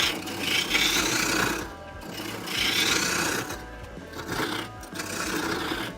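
Turning tool cutting into a spinning birch burl on a wood lathe, a rasping scrape that swells and eases in three passes as the bowl's foot is shaped.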